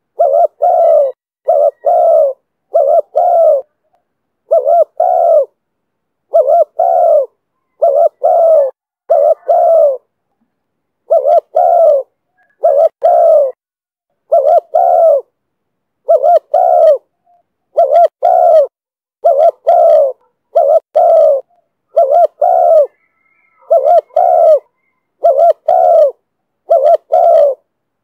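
Spotted dove cooing in short, clipped notes that come in pairs, about one pair a second, with silent gaps between and a few longer pauses.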